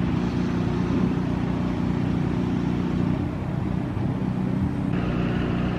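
Whale-watching boat's motors running steadily: a low, even hum with a hiss over it.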